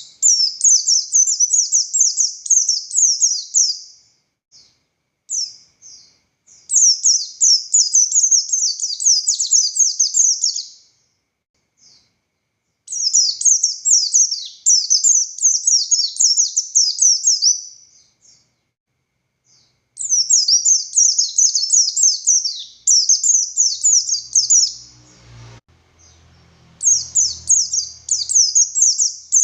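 An Oriental white-eye (pleci buxtoni) sings in long outbursts of rapid, high, downslurred notes. There are five phrases of about four seconds each, separated by short pauses. A faint low rustle and a click come in the gap near the end.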